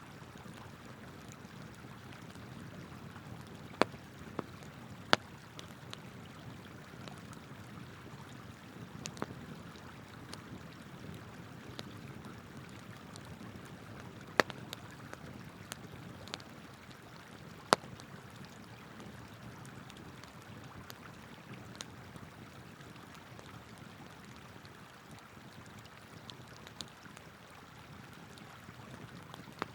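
River water flowing steadily under a wood campfire crackling, with sharp pops from the burning wood at irregular intervals, a few of them much louder than the rest.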